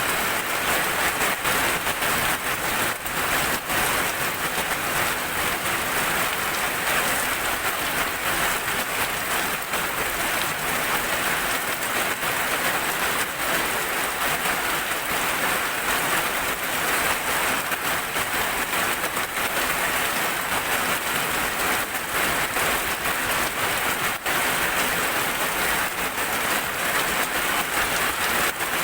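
Steady heavy rain falling on a surface, a dense even hiss with many small drop impacts.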